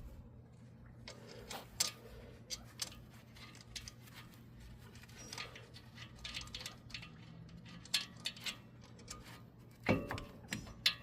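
Metal tools and brake caliper hardware clinking and clicking, scattered sharp knocks with a heavier clunk about ten seconds in.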